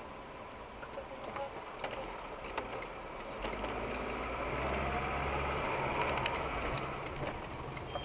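Car engine heard from inside the cabin, pulling away from a standstill: a low hum with a rising tone that builds from about three and a half seconds in and eases near the end as the car picks up speed.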